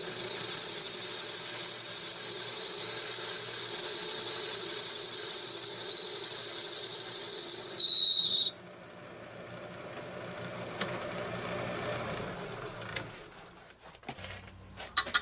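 Homemade all-steel lathe ringing during a cut on round stock: a steady, high-pitched ring that stops abruptly about eight seconds in, leaving a quieter running sound and a few clicks near the end. The ring is cutting vibration carrying through the all-steel frame, as the owner reckons.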